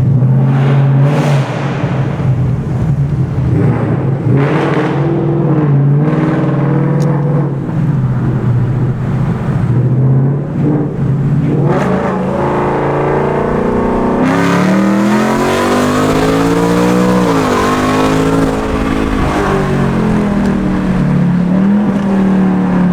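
2019 Mustang GT's 5.0 V8 running through a newly fitted Flowmaster Outlaw cat-back exhaust with an H-pipe. It holds a fairly steady note at first, then revs up and falls back over a few seconds about two-thirds of the way in.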